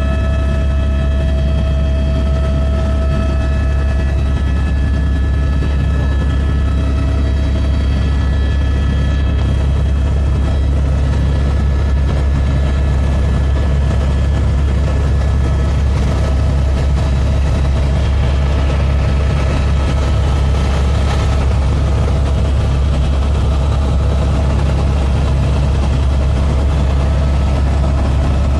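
Helicopter running steadily: a loud, even low drone, with a thin whine on top that fades over the first several seconds.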